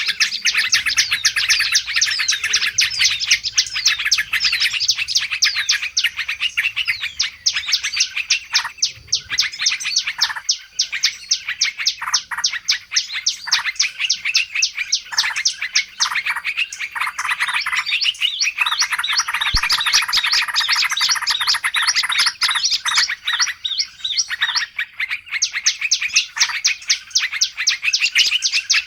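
Dense chorus of many small birds chirping and twittering rapidly over one another: a bird-lure recording of noisy mixed small birds. Around the middle a run of fast repeated lower notes thickens the chorus for several seconds.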